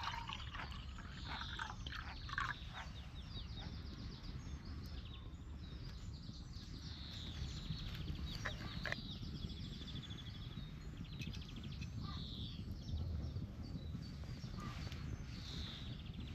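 Several birds calling repeatedly, with short calls and quick trilled series throughout, over a steady low rumble of wind.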